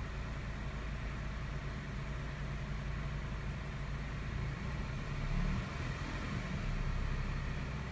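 A 2015 Chevy Malibu's engine idling with a steady low hum, then revved a little about five seconds in.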